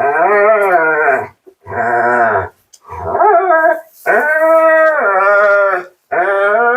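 Siberian husky 'talking' in protest at being bathed: a run of about five drawn-out, wavering woo-woo howls, each a second or so long with short breaks between them. The longest call comes in the second half.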